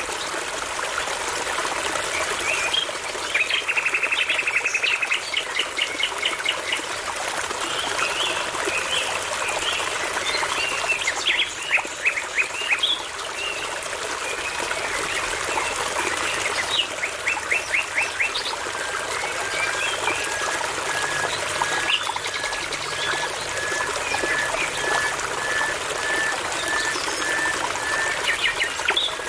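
Several songbirds singing over a steady babbling brook: phrases of fast repeated notes and trills. From about two-thirds of the way in, one bird gives an even series of short whistled notes, about two a second.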